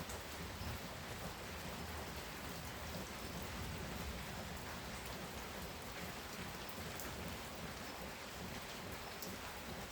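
Heavy rain pouring steadily, with a few sharper drops ticking now and then. The low tail of a thunder rumble fades out just after the start.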